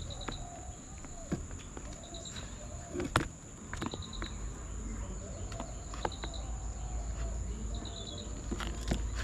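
Outdoor nature ambience: short pulsed chirps in groups of four or five recur about every two seconds over a steady high-pitched insect-like whine, with scattered small clicks and one sharper tap about three seconds in.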